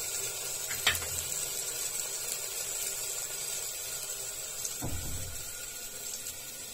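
Onion-tomato masala sizzling in hot oil in an aluminium pressure cooker, a steady hiss, with a short click about a second in and a soft low thump near five seconds.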